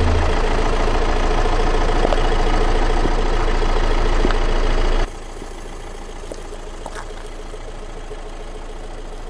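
Car engine running steadily with a low hum. About five seconds in it drops abruptly to a quieter level.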